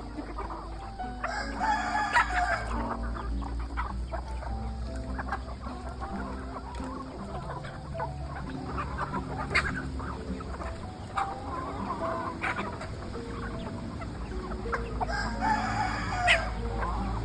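Domestic chickens clucking, with a rooster crowing about a second and a half in and again near the end.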